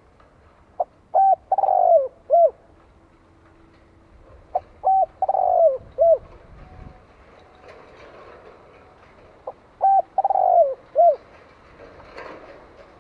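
Spotted dove singing its cooing call three times, about every four to five seconds. Each phrase is a couple of short opening notes, a longer coo that falls in pitch, and a short closing note.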